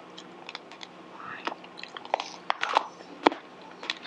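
Chewing hard, unfried Indonesian shrimp crackers (krupuk udang): a series of sharp, irregular crunches. The crackers are dry and uncooked, meant to be deep-fried before eating, which is why they are so hard and crunchy.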